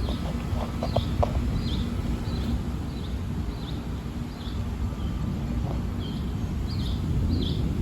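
Steady low rumble of a thunderstorm, with a high, short chirping call repeating about one and a half times a second over it.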